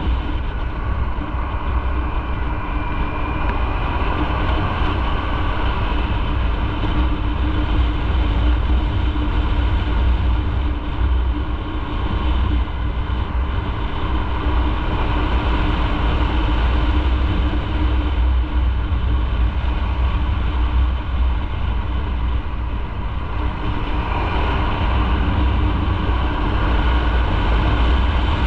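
Motorcycle on the move at a steady pace: engine hum under a heavy, steady low rumble of wind and road noise.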